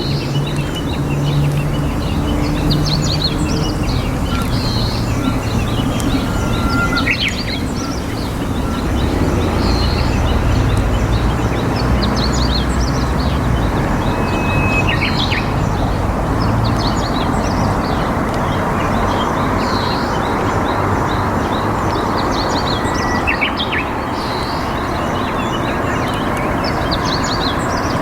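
Small wild birds chirping in short calls every few seconds, with an occasional brief whistle, over a steady rushing background noise.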